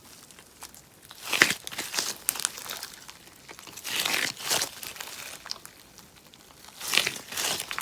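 Sponge slime being squeezed and stretched by hand, giving bursts of crackling, popping and crinkling a few times, with quieter squishing between.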